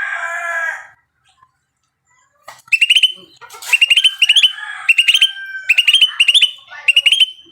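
A songbird calling: groups of rapid, sharp, high chirps repeated every half second or so after a short pause. A lower, warbling call fades out about a second in.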